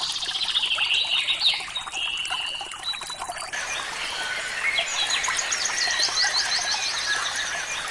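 Birds singing and chirping over a faint trickle of running water. About three and a half seconds in, the recording cuts to a different, denser chorus of quick repeated chirps and trills.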